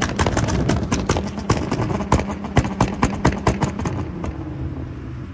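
Cars' engines held on two-step launch-control rev limiters, their exhausts popping and banging rapidly and unevenly over a steady engine drone. The popping stops about four seconds in.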